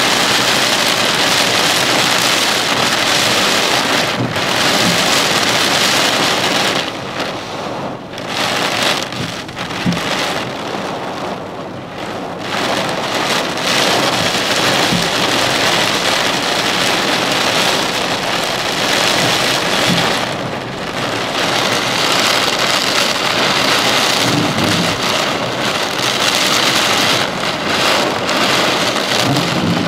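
Heavy thunderstorm rain coming down in a steady dense hiss, easing off for a few seconds about a third of the way in and again briefly around two-thirds of the way.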